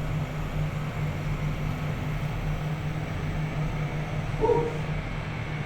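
Steady low machine hum with a pulsing drone, and a short higher-pitched sound about four and a half seconds in.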